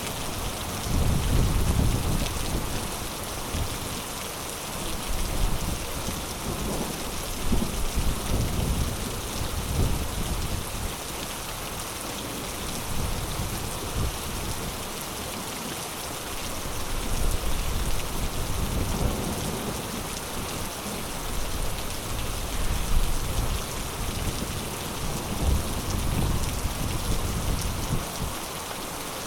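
Heavy rain pouring steadily, with low rumbles swelling up several times.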